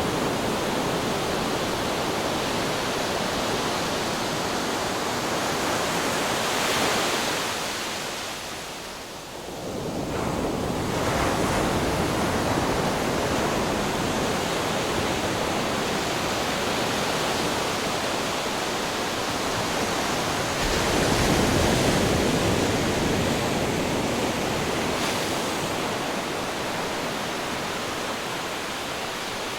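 Ocean waves breaking on rocks: a continuous rushing wash of surf that swells and falls. There is a brief lull about nine seconds in, then a heavier surge a little past twenty seconds.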